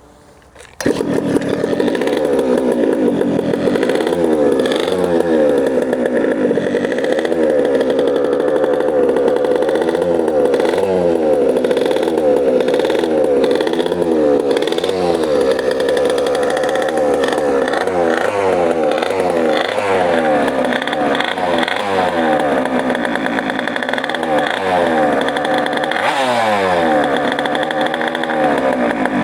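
1995 DM Minimoto DM1 SS pocket bike's small two-stroke engine cold-starting with the choke off. It catches suddenly about a second in, then keeps running while the throttle is blipped over and over, the revs rising and falling about once a second.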